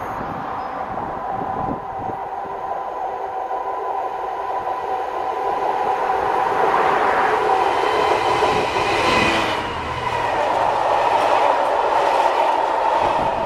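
Diesel freight locomotive approaching and passing with its engine running steadily and growing louder. From about ten seconds in, its rake of flat wagons rolls past close by with a rattling of wheels on the rails.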